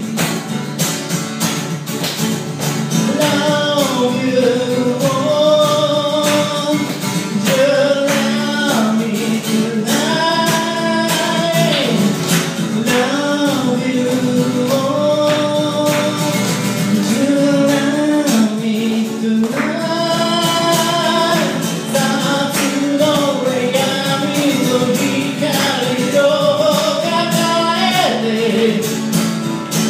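A singer performing a sung melody with long held, gliding notes, to a strummed guitar accompaniment.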